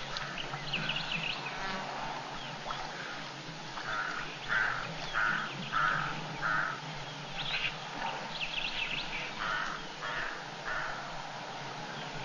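A bird giving harsh, rasping calls in two runs of three to four, about 0.6 s apart, the first about four seconds in and the second near the end, over scattered high chirps from other birds.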